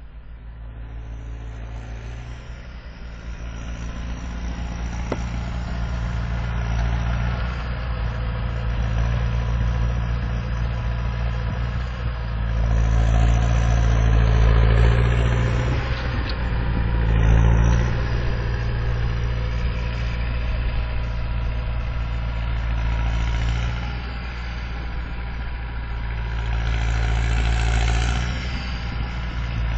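Massey Ferguson 5455 tractor's turbo diesel engine working hard while driving a snowblower, with the turbocharger's whistle. It builds up over the first several seconds and swells twice more, the second time near the end.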